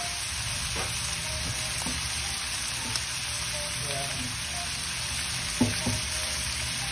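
Seafood and vegetables frying in a nonstick wok, with a steady sizzle. Two light knocks come a little more than halfway through.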